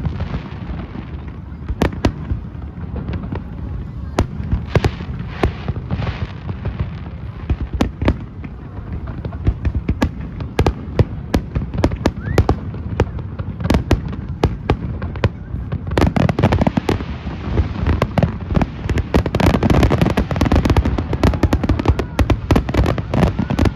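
Fireworks display: a steady series of bangs, growing into a dense barrage with crackling about two-thirds of the way through.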